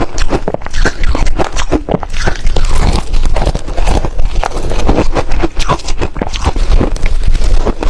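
Ice being bitten and chewed close to the microphone: a dense, irregular run of loud crunches and cracks.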